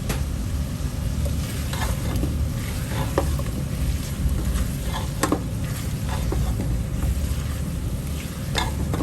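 A spoon stirring diced potato and carrot through a pot of spiced chicken curry on the stove, with scattered clicks and scrapes against the pot over a steady low rumble and the hiss of the food cooking.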